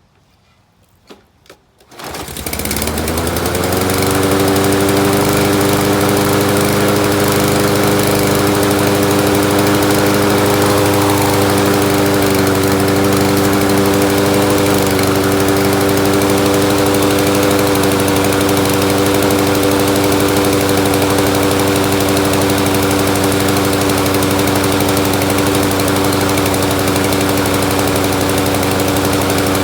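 Small lawn mower engine starting about two seconds in, rising quickly to speed and then running steadily at full throttle. The crankcase is overfilled with oil, and the owner judges the engine to be running rich.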